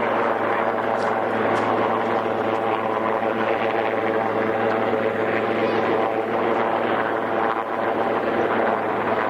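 Twin-engine search-and-rescue helicopter hovering, its engines and rotor giving a steady, unbroken drone with a constant low hum.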